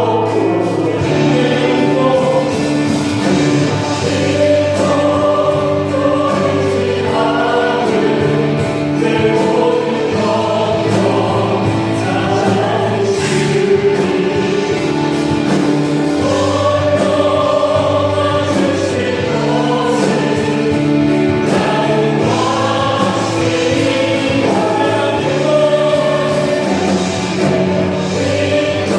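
Church praise team singing a Korean worship song, several voices together over sustained held chords.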